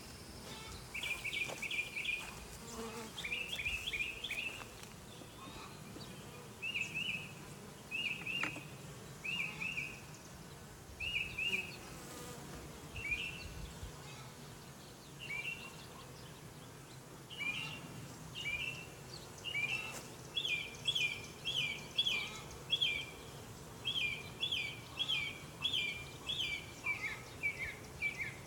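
Honeybees humming around an open hive, with a bird chirping over them in short repeated calls: about one a second at first, then faster runs of two or three chirps near the end.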